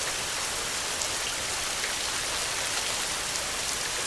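Steady rain falling: an even hiss with scattered taps of single drops.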